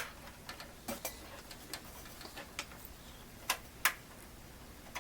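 Light metallic clicks and taps of a PC case's expansion-slot covers being handled and worked loose, with two sharper clicks about three and a half and four seconds in.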